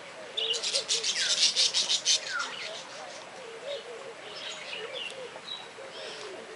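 Birds calling: a loud burst of rapid chattering notes for about two seconds near the start, then scattered short chirps and descending whistles.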